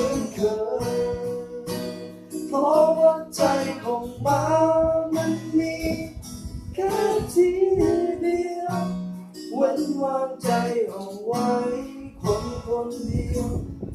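Acoustic guitar strummed with a voice singing a slow ballad.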